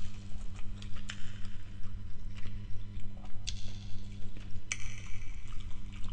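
Close-miked eating sounds of spaghetti with prawns in tomato sauce: wet chewing and small mouth clicks, with two louder crackly smacks past the middle. A steady low hum runs underneath.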